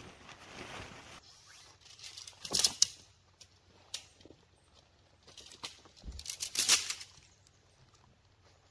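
Nylon tent gear and ground sheet being handled, rustling and crinkling in two short bursts, about two and a half seconds in and again around six to seven seconds. Light wind noise fades out about a second in.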